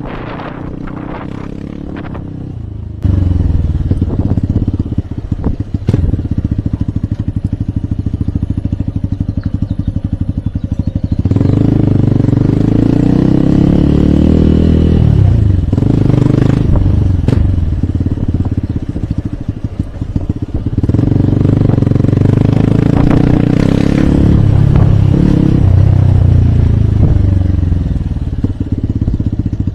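Hero Hunk motorcycle's single-cylinder 150 cc engine under way on a ride. It gets louder about three seconds in, then rises and falls in pitch several times as the rider accelerates and lets off.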